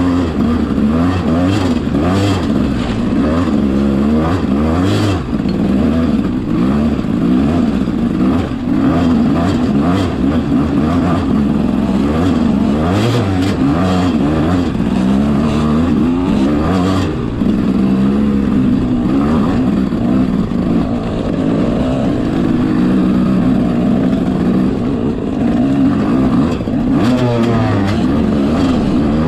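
Enduro motorcycle engine climbing a trail, constantly revving up and down as the throttle is worked, its pitch rising and falling every second or two, with occasional short clatters.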